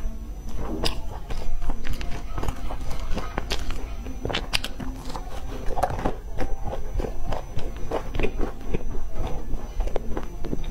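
Close-miked chewing of a mouthful of flaky meat-filled pastry: irregular wet mouth clicks, smacks and crisp crunches following one another quickly.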